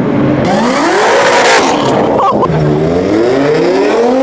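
Car engines revving hard as cars accelerate, the engine pitch climbing and dropping several times, with a short high chirp about halfway through.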